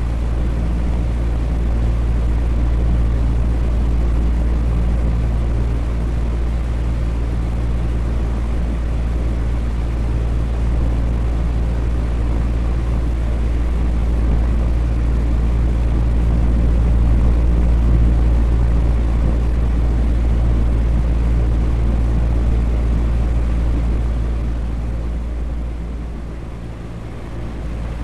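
Electric fan running steadily: a continuous whooshing air noise with a low hum. It dips briefly in level near the end, then comes back.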